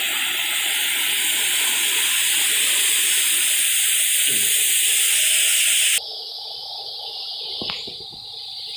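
Steady rush of falling water from a waterfall, cut off abruptly about six seconds in and replaced by a quieter, steady hiss.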